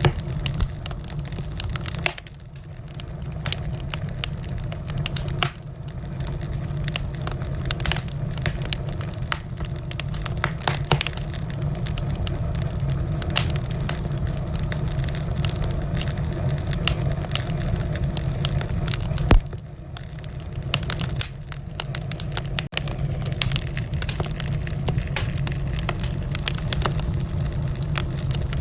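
Wood fire in a fireplace crackling, with frequent sharp pops and snaps over a steady low rumble; one louder pop about two-thirds of the way through.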